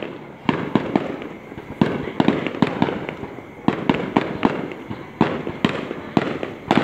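Fireworks exploding: a run of sharp bangs at uneven intervals, often several a second, over continuous rumbling and crackling.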